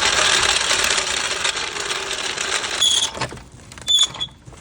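A metal jack is being moved into place: a loud, rattling scrape of metal on concrete for almost three seconds, then two sharp metal clanks that ring briefly.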